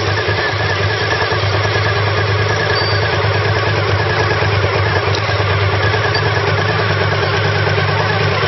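Car engine and road noise heard inside the cabin while driving, a steady low hum at constant engine speed, with the transmission stuck in third gear.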